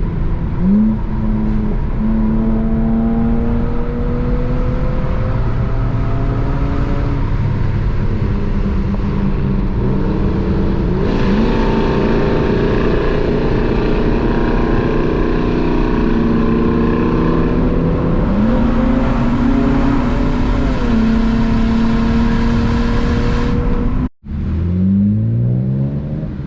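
Car engine accelerating through the gears: its pitch climbs slowly and drops back at each gear change. Near the end the sound cuts out for a moment, then the engine climbs quickly again.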